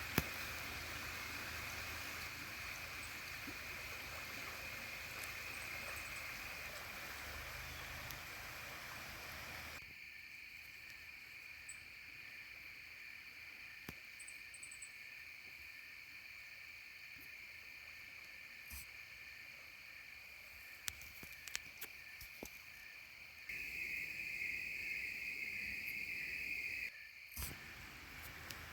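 Crickets chirring in a steady high-pitched trill over faint outdoor background noise. The trill grows louder and more pulsed for a few seconds near the end.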